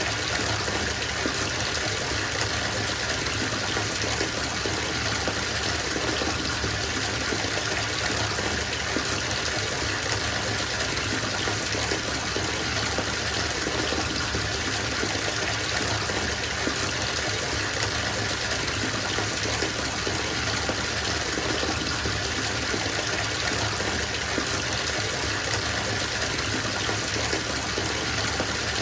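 Bathtub filling from the tap: a steady gush of running water pouring into the tub, unchanging throughout.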